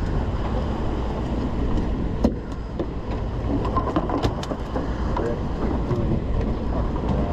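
Boat engine running steady under a low rumble of wind and water, with a few sharp clicks and knocks on deck.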